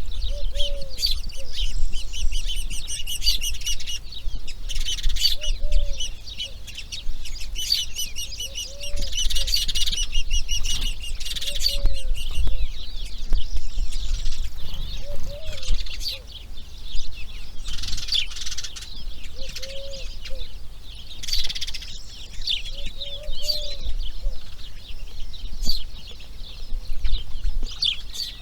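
Outdoor bird chorus: many small birds chirping and trilling, with a short, low, soft call repeating every two to three seconds under it.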